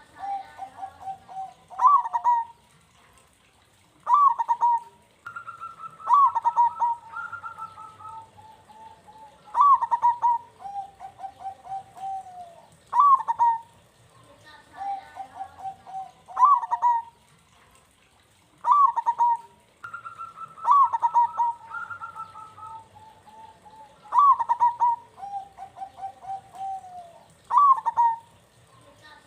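Zebra doves (perkutut) cooing. Each phrase opens with a sharp falling note, then runs into a string of quick, stuttering lower coos, and the phrase repeats every three to four seconds. A second, higher-pitched dove joins in twice.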